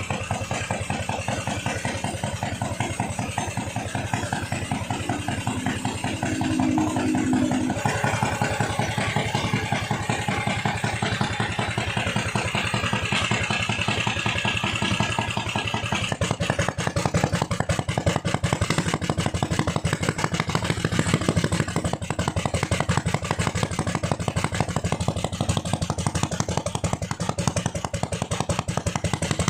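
A small ketinting (longtail boat) gasoline engine running steadily with rapid firing pulses, picking up speed and getting louder about a quarter of the way in and again about halfway through.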